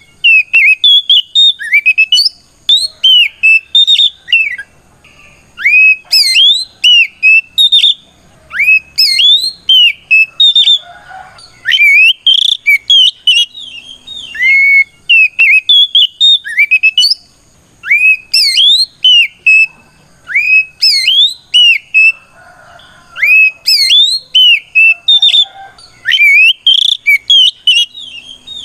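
Oriental magpie-robin singing its loud, full 'ngeplong' song: short phrases of clear whistles that sweep up and down, repeated every second or two with brief pauses. It is a fighting song calling out a rival.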